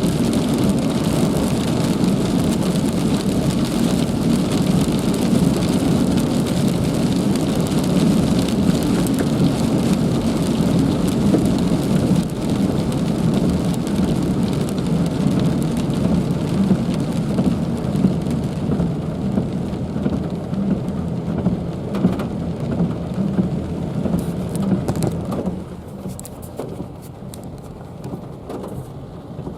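Heavy rain pouring steadily in a dense, even roar, strongest in the low range. It drops off noticeably and grows duller about 25 seconds in.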